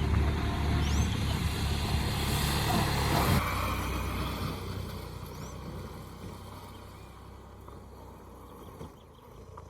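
Motorcycle running, its sound dying away steadily through the second half as it slows down. Two short high bird chirps come through, about a second in and around five and a half seconds in.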